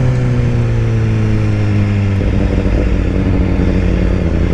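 BMW S1000RR's inline-four engine running, its pitch sinking slowly over the first two seconds before the sound changes and grows rougher and lower about halfway through.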